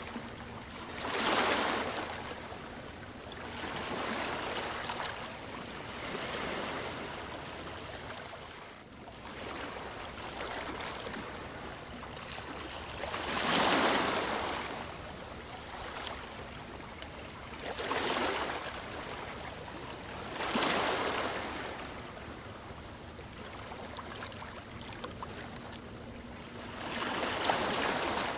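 Sea waves breaking and washing onto a shore, swelling and fading every few seconds over a steady rush of water; the largest surges come about 13 and 27 seconds in.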